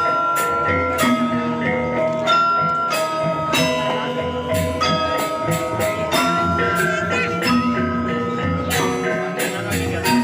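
Balinese gamelan playing: bronze metallophones struck in quick repeated notes that ring on, over a low steady pulse.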